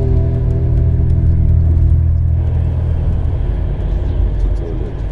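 Background music fades out over the first two seconds or so and gives way to the steady low rumble of a moving passenger train, heard from inside the carriage.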